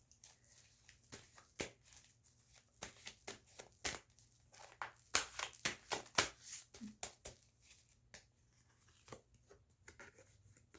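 Tarot cards being shuffled and handled: a quick, irregular run of soft clicks and flicks, densest through the middle and thinning out near the end.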